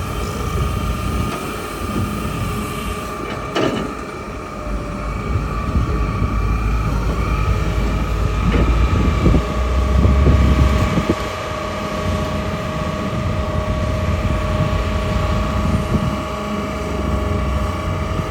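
Hitachi hydraulic excavator working: its diesel engine running under load with a steady hydraulic whine. It gets louder for a couple of seconds about halfway through, with a couple of sharp knocks.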